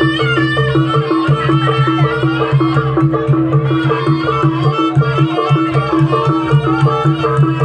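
Javanese traditional trance-dance music: gamelan percussion playing a quick repeating pattern of struck pitched notes over a steady low drone, with a wavering slompret (Javanese shawm) melody above it for the first few seconds.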